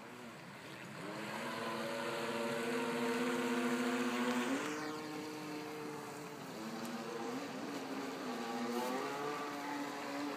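1:5 scale RC jet ski's battery-powered motor whining under throttle over a steady hiss. Its pitch climbs about a second in, steps higher, dips and climbs again as the throttle changes.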